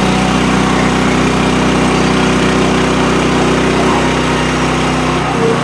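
Gas engine of a manual band sawmill running steadily under load as the blade cuts a red cedar crotch piece in half; its note changes near the end.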